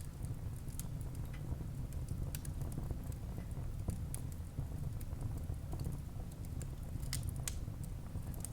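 Wood fire burning in a fireplace: a steady low rumble of flames with scattered crackles and pops of burning wood, a couple of sharper pops about seven seconds in.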